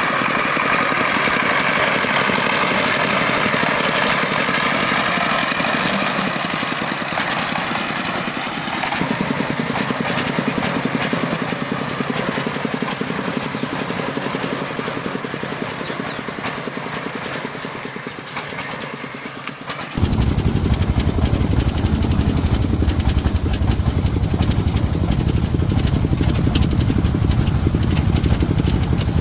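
Farm tricycle truck's engine running, its pitch wavering slightly. About two-thirds of the way through, the sound switches abruptly to a louder, deeper, rougher engine note that continues steadily.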